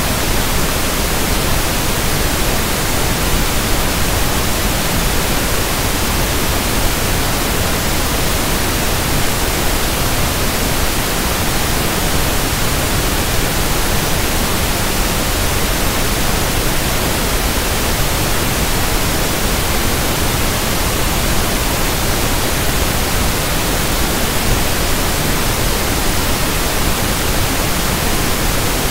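Generated 1/f pink noise: a steady, even hiss spread across the whole range of pitch, unchanging throughout.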